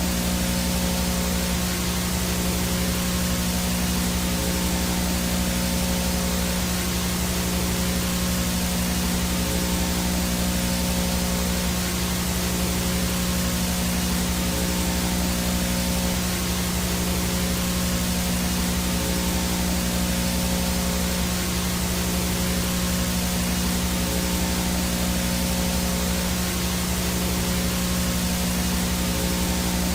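VHS no-signal static: a steady, even hiss with a low buzzing hum under it and a thin high-pitched whine above it, unchanging throughout.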